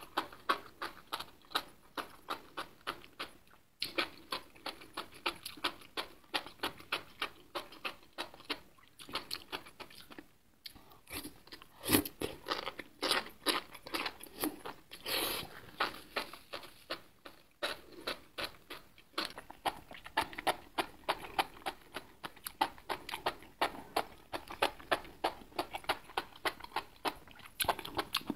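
Close-miked wet, crunchy chewing of enoki mushrooms in chili broth, in a steady rhythm of about three chews a second. A few louder slurps come as saucy strands are sucked in.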